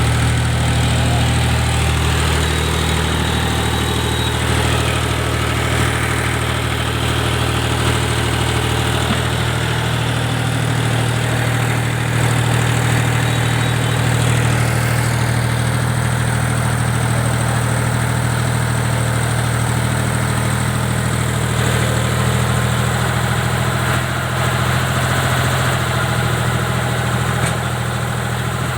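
Heavy diesel engine running steadily at low revs, with an even low hum.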